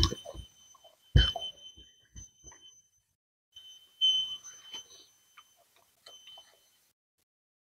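Close-miked eating sounds: a man chewing and smacking his lips on rice and chicken eaten by hand, with two low thuds in the first second or so and scattered small clicks. A thin, steady high whine comes and goes with the eating sounds.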